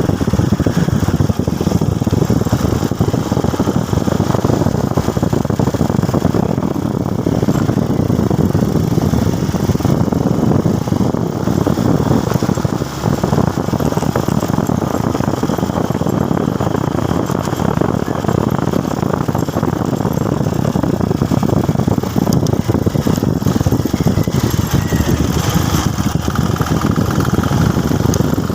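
Motorcycle riding on the road: a steady, loud low rumble of engine and road noise.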